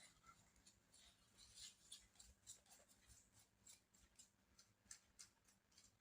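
Near silence with faint, scattered light clicks and ticks, several a second at times.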